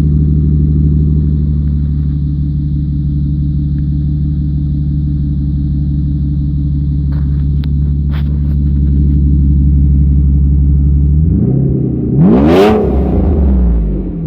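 1997 Mercedes S600 coupe's straight-piped V12 running steadily at idle, then revved once about twelve seconds in, its pitch rising quickly and falling back to idle.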